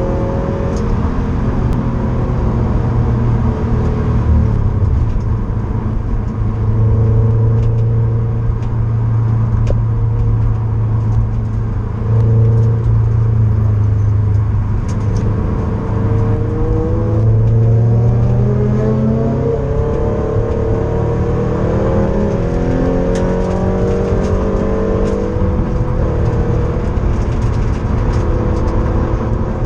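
Subaru BRZ's flat-four engine heard from inside the cabin under track driving, the revs climbing and dropping again and again as the car accelerates, shifts and slows.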